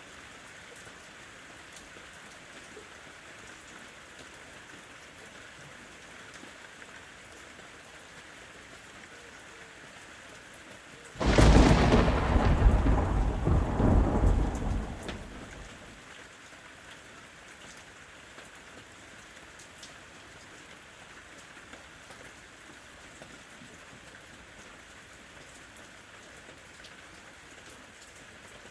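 Steady rain falling, with a single loud thunderclap about eleven seconds in that starts abruptly and rumbles away over about five seconds.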